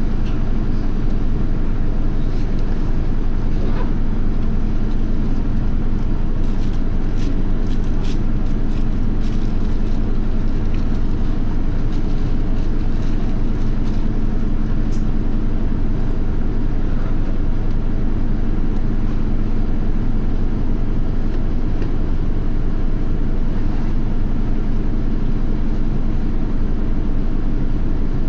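Isuzu Erga city bus (QDG-LV290N1) and its diesel engine running at a steady, even pitch under way, heard from inside the bus. A few faint rattles come in around a quarter of the way through.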